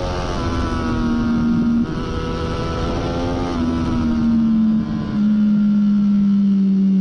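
A 2014 Triumph Daytona 675's inline three-cylinder engine, breathing through a Hindle slip-on muffler, running hard at high revs. The pitch steps and eases down, with short breaks in the sound about two seconds and five seconds in.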